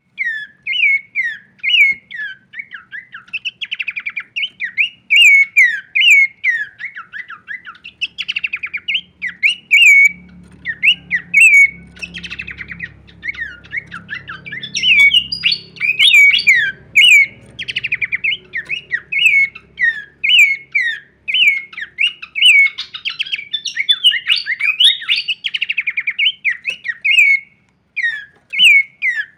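Pelanduk semak babbler singing a long, varied run of short, clear whistled notes, many sliding down in pitch, strung into quick phrases with brief pauses.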